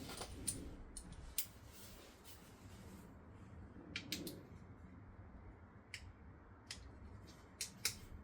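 Faint, scattered sharp clicks and taps over a low background hum, with a small cluster about four seconds in and a few more near the end.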